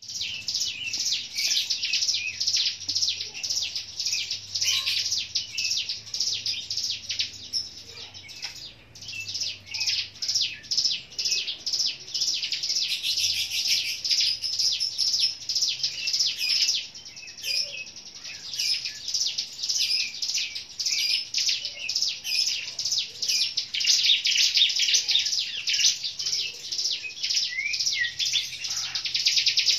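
Prinias, the small songbirds known in Indonesia as ciblek gunung (cigun) and ciblek sawah (ciwah), singing a rapid, high-pitched chirping song of fast repeated notes, almost without a break. The song pauses briefly twice, around a third of the way in and just past halfway.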